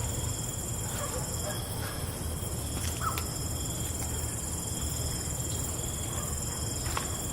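Night ambience of insects, likely crickets, calling in several steady high tones over a steady low rumble, with a few faint short clicks and chirps. The highest tone drops out about one and a half seconds in.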